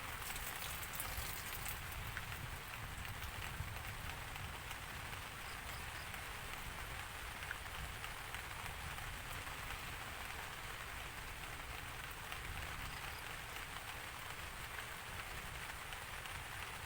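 Steady rain falling, a dense patter of drops without a break.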